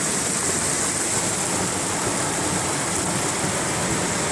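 Steady rushing of water under heavy rain: storm runoff flowing in a flood.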